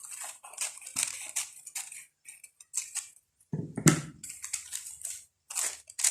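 Pattern paper being handled, rustling and crackling in short bursts, with a louder bump against the table about four seconds in.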